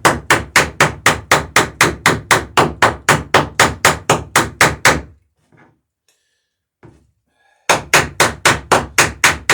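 A hammer rapidly peening rivets over a bucking iron on a dory's sheer strake, about five sharp strikes a second. The strikes stop about five seconds in and start again after a pause of about two and a half seconds.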